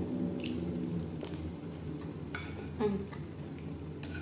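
Close-up chewing of a mouthful of hamburg steak, with a few short sharp clicks along the way.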